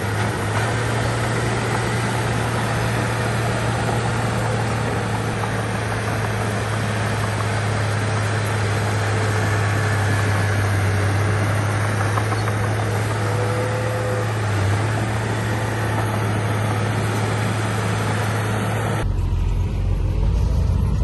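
Heavy earthmoving machine's diesel engine running steadily, with a strong low hum under a dense mechanical noise. About two seconds before the end the sound changes abruptly to a deeper, duller drone with much less high noise.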